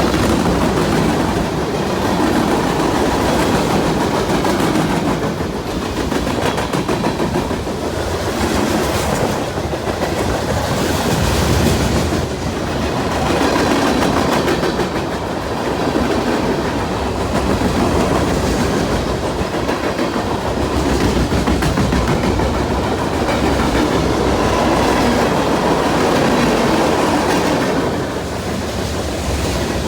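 A train rolling past, steel wheels clattering over the rail joints over a continuous rumble. It eases briefly about twelve seconds in and again near the end.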